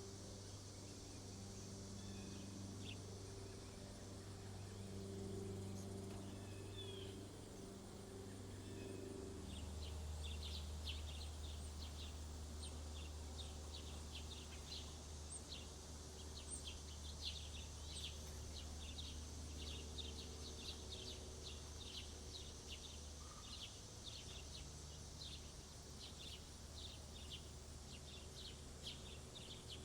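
Small birds chirping in quick, rapid runs, starting about a third of the way in, over a faint, low, steady hum.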